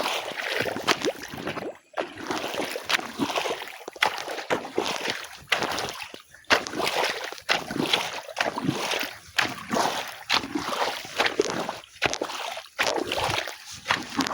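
Digging in a rice field to make a seedbed: a hand digging tool cutting and turning soil, with wet splashing, sloshing strokes repeated roughly once a second.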